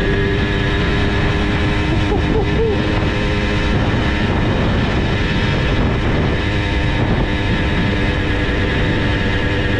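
Simson S51 moped's single-cylinder two-stroke engine, bored to 85cc, running steadily at high revs while ridden flat out, its pitch holding nearly even.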